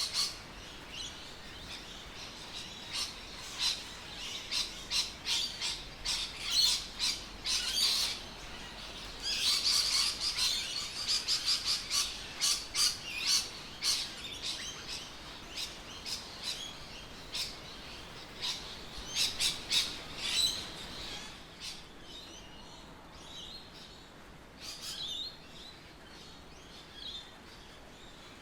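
Birds chirping outdoors: many short, quick calls, busiest in the middle and thinning out near the end, over a faint steady background hiss.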